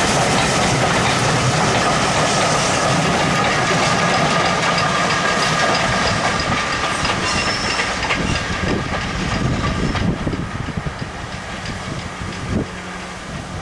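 Coaches of a steam-hauled passenger train rolling past on the rails, the wheels clattering over the track. The sound holds steady, then fades from about eight seconds in as the train draws away.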